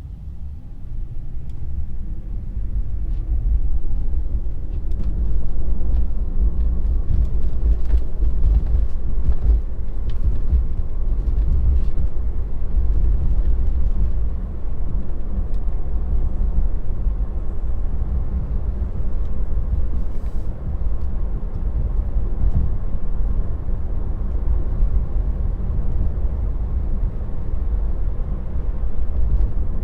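A Tesla on the move, with a steady low road and tyre rumble that builds over the first few seconds and then holds, and faint light ticks on top.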